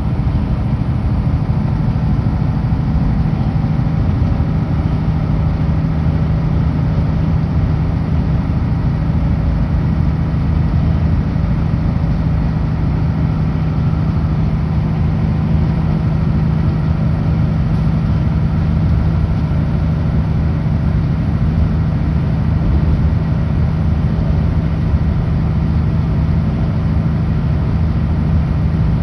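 Kenworth W900L truck's diesel engine running steadily at highway speed, with a constant low drone and road noise.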